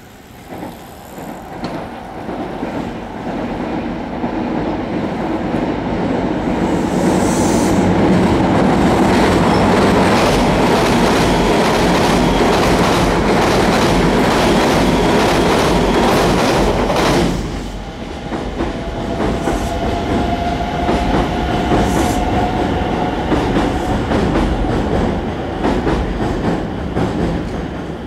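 5000-series electric train running across a steel girder bridge: a rumble with clattering wheels that builds up, stays loud while the cars pass, and drops off sharply about 17 seconds in. After that, quieter running noise from another train goes on, with a steady whine for a few seconds.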